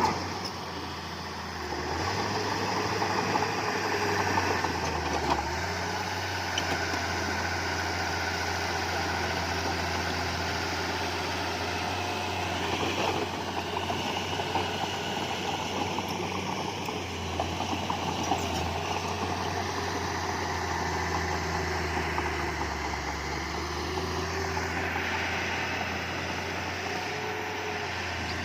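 Diesel engines of heavy earthmoving machinery (bulldozer and dump trucks) running steadily: a continuous deep hum, with higher engine tones rising and falling now and then as the machines work.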